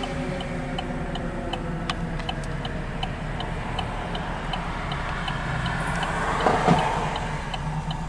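Fire engine's diesel engine running with a steady low rumble, with a light, quick, regular ticking of about three ticks a second. About six and a half seconds in there is a brief louder rush.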